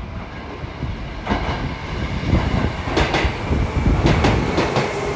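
Train running on rails: a steady low rumble with repeated clicks from the wheels, growing a little louder after about a second.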